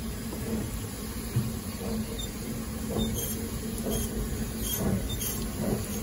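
Narrow-gauge train running on the rails: a steady low rumble with a string of short clicks from the wheels, coming closer together toward the end.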